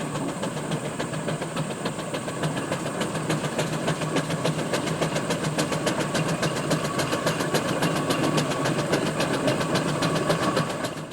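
Steam traction engine running, a fast, even rhythmic beat over a steady hum.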